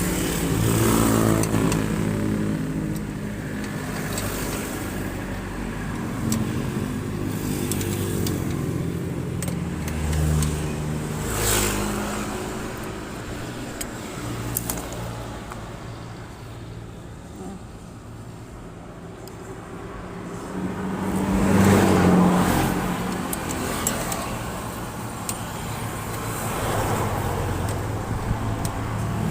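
Road traffic: steady engine hum from motor vehicles, with louder swells as vehicles pass about 11 and 22 seconds in.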